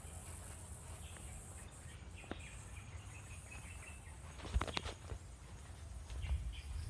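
Outdoor tropical ambience of insects, with a steady high-pitched insect drone over a low rumble. A couple of sharp clicks come about four and a half seconds in.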